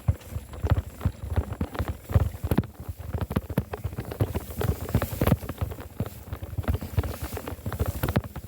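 Mountain bike rolling over a rough road, picked up through the handlebar-mounted phone holder: a fast, irregular stream of knocks and rattles over a low rumble.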